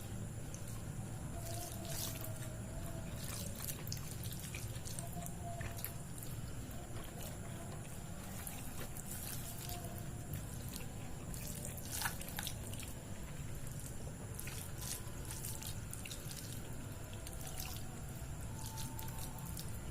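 Close-miked wet eating sounds: chewing of soft, saucy food with lip smacks and scattered mouth clicks, the sharpest about twelve seconds in, over a steady low hum.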